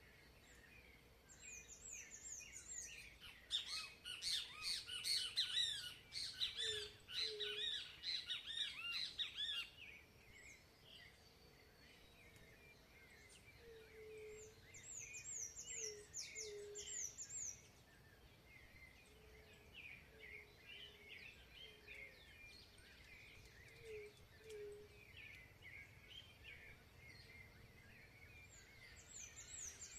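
Several wild birds singing at once. One bird gives a loud, rapid, varied song for several seconds early on. Others repeat short runs of high, thin, falling notes and lighter chirps, while soft low hoots repeat throughout.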